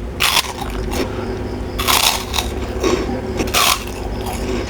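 Close-up crunching of a crisp, cracker-like snack (kerupuk-style) dipped in sauce: three sharp crunchy bites about a second and a half apart, over a faint steady hum.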